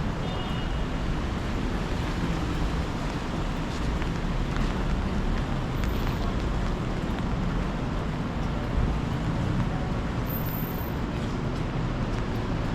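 Steady city street traffic noise, with a low rumble from passing vehicles.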